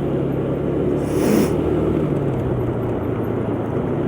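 125cc motor scooter engine running steadily on the move, with rushing noise over it and a brief hiss about a second in.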